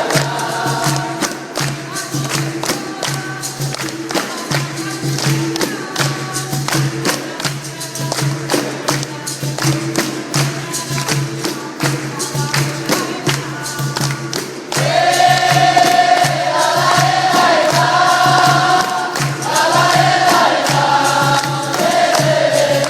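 Capoeira roda music: singing over a steady beat of hand percussion. About fifteen seconds in, a louder chorus of many voices comes in, answering the song.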